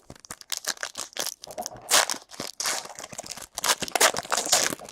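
Trading card pack wrapper being torn open and crinkled by hand: a dense, irregular crackling with louder bursts about two seconds in and near the end.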